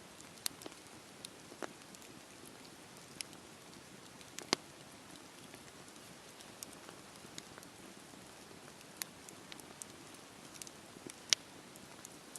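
Campfire burning: a steady soft hiss with irregular sharp crackles and pops from the burning wood, the two loudest about four and a half seconds in and near the end.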